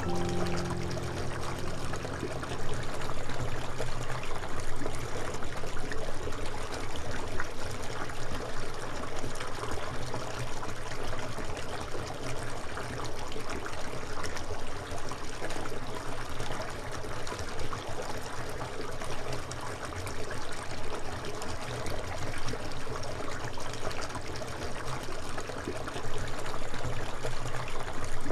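Water running and trickling steadily, a continuous stream sound.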